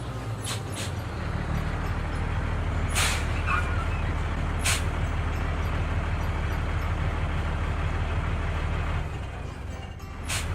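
Heavy truck engine running steadily with a low hum, broken by short hisses of released air: two close together a few seconds in, and another at the end. The engine drops briefly just before the last hiss.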